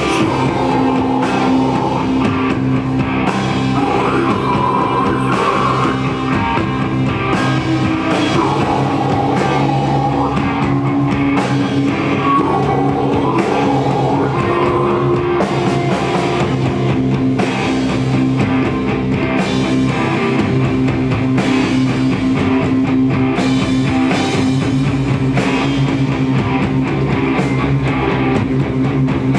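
A rock band playing live: electric guitars holding sustained chords over a drum kit, with a melodic lead line wavering in pitch above them.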